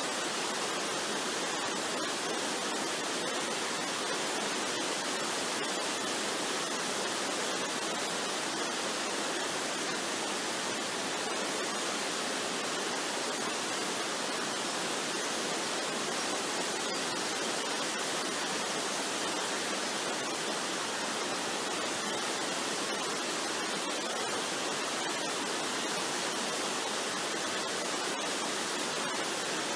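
Waterfall rushing steadily: an even, unbroken hiss of falling water with no tune or beat.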